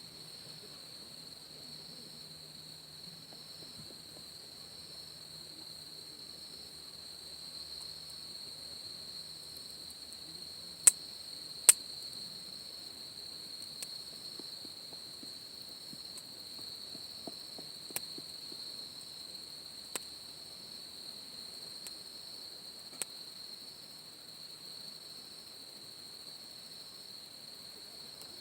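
Steady high trilling of night insects, with half a dozen sharp pops from a wood campfire, the two loudest close together about eleven seconds in.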